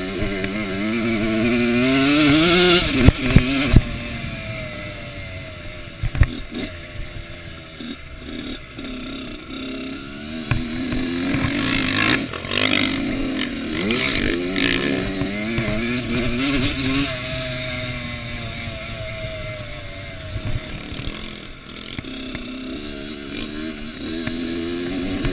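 Kawasaki KX85 two-stroke motocross bike engine being ridden hard, its pitch repeatedly climbing as the throttle opens and dropping as it backs off. A few sharp knocks come about three seconds in, and another about six seconds in.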